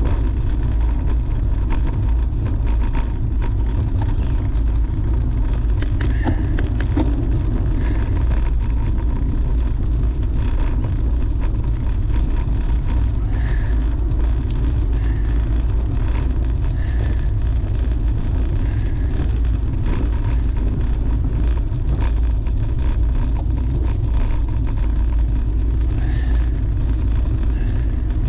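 Wind rushing over the microphone of a camera on a bicycle ridden at road speed: a steady, heavy low buffeting with no letup, with faint scattered clicks above it.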